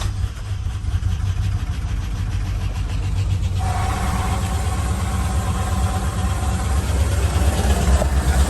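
Chevrolet 2500HD pickup engine running just after being jump-started, a steady low rumble; about three and a half seconds in a higher steady tone joins it.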